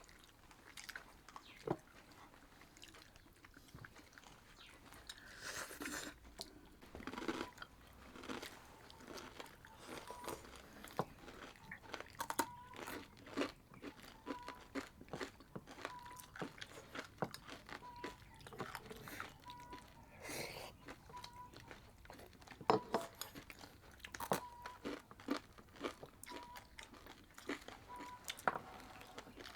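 Crunchy homemade rice crackers being bitten and chewed, with crisp irregular crunches throughout.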